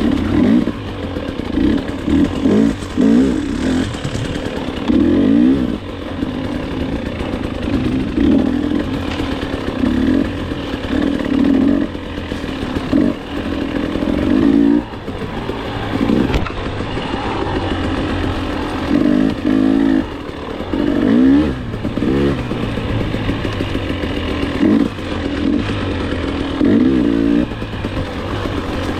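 KTM enduro dirt bike engine revving hard and dropping back over and over as the throttle is opened and closed, with rising surges every second or two.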